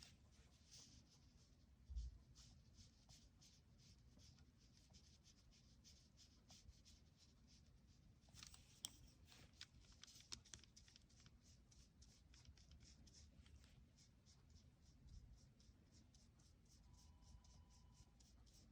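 Faint, quick strokes of a painting or drawing tool moving over paper, many short scratches in a row, with a soft thump about two seconds in.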